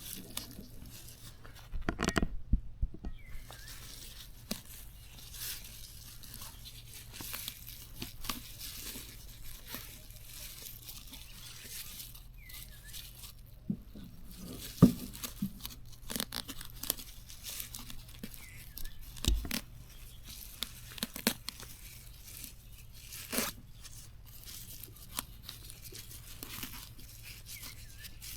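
Irregular tearing and crinkling of plant material by hand, with scattered sharp snaps: leaves and stems being torn or picked apart.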